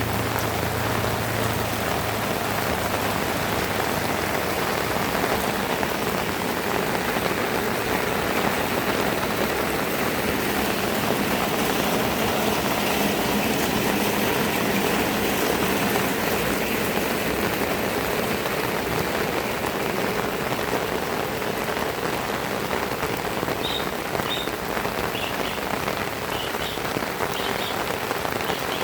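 Heavy rain falling steadily as a dense, even hiss. A few short, high chirps sound near the end.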